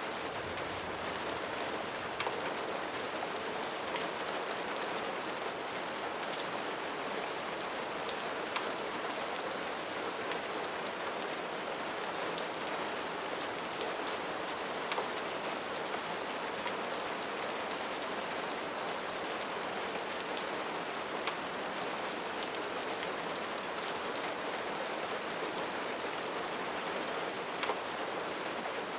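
Steady rain falling, an even hiss with a few sharper drip-like ticks scattered through it.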